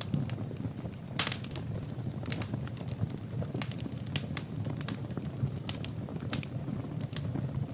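Fire burning in a fireplace: a steady low rumble of flames with irregular sharp crackles and pops, several close together about a second in.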